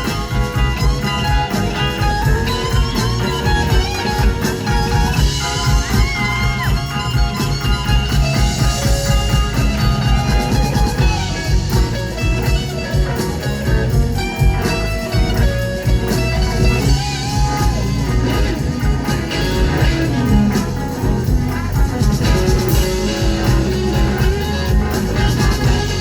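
Live blues band playing an instrumental stretch of a slow blues, with a lead electric guitar soloing in bending, gliding notes over drums and bass.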